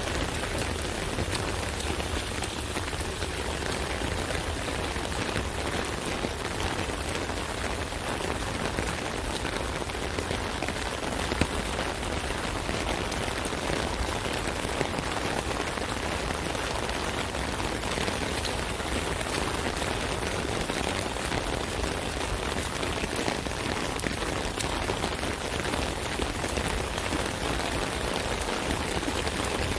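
Steady rain drumming on an umbrella canopy, a dense patter of drops with a low rumble beneath.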